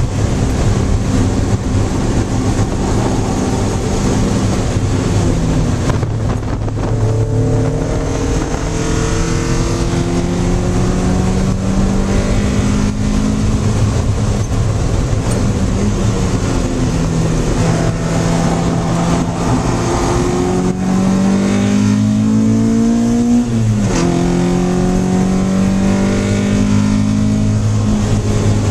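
Naturally aspirated, high-compression 2.0-litre four-cylinder engine of a Mazda Miata race car with individual throttle bodies, heard from inside the cabin while lapping a track. The engine pitch climbs as it pulls hard and drops several times, most sharply about four-fifths of the way in.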